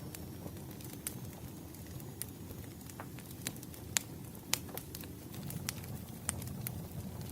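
Wood fire crackling: irregular sharp pops and snaps over a low steady rumble, with the loudest pops about four seconds in and again half a second later.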